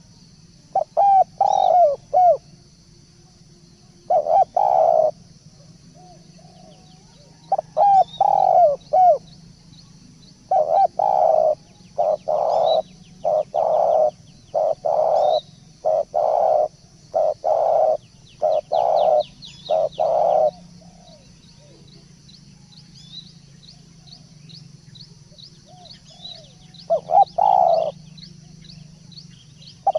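Spotted dove cooing in repeated phrases, with a long run of about a dozen evenly spaced coos in the middle and shorter groups of coos before and after. Small birds chirp faintly in the background, with a quick run of high chirps near the end.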